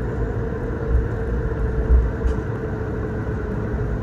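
Cabin noise of an Airbus A220-300 taxiing after landing: a steady low rumble from its Pratt & Whitney geared turbofans and cabin air, with one held tone and a couple of bumps from the wheels about one and two seconds in.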